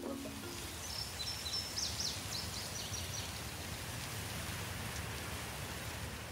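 Small birds chirping, a quick run of short high chirps in the first half, over a steady hiss of outdoor background noise.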